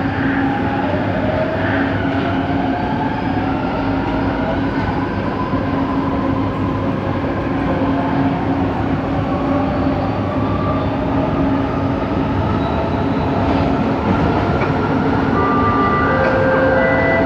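Light rail train heard from inside a moving car: a steady hum with pitched motor whines that glide slowly upward. Near the end, short steady tones come in. This is the weird motor noise the recordist traced to coach 4.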